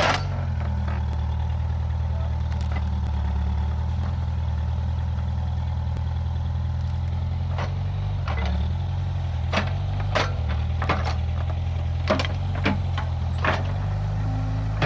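Case 580G backhoe loader's diesel engine running steadily, its pitch dipping briefly about eight and ten seconds in as it takes load. Several sharp knocks over the second half.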